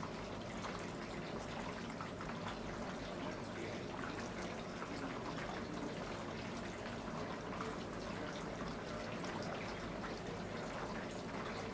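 Water trickling and dripping steadily.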